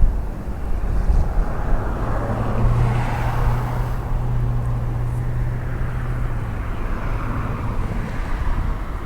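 Jet airliner engines: a broad rush with a steady low hum, swelling about three seconds in and easing off after about six seconds.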